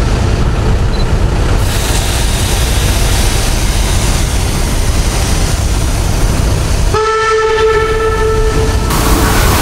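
The rumble and rattle of a passing train, then about seven seconds in a train's air horn sounds one steady low note for about two seconds.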